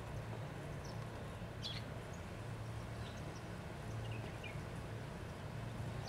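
Steady low hum and background hiss, with a few short, high bird chirps scattered through; the clearest is a quick falling call a little under two seconds in.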